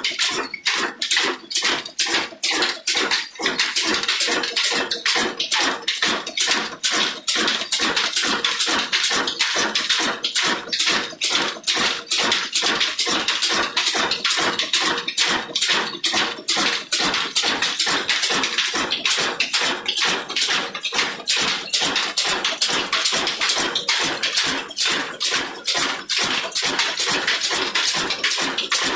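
Old Ruston Hornsby single-cylinder diesel engine running at slow, steady speed, a sharp even beat about three to four times a second.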